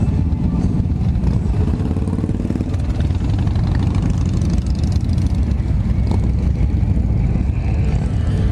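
Motorcycle engines running steadily, a deep, rapidly pulsing low rumble at an even level.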